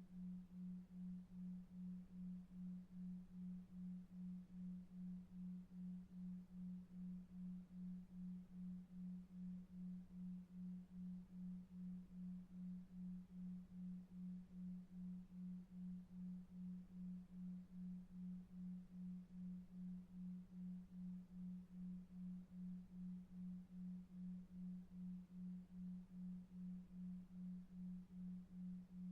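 Faint low hum-like tone, a single pure pitch pulsing evenly about two and a half times a second: a 2.5 Hz delta-wave pulsed tone meant to lull a child to sleep.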